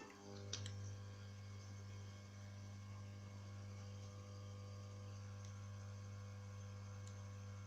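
Steady low electrical mains hum that comes on just after the start, with fainter steady higher tones above it.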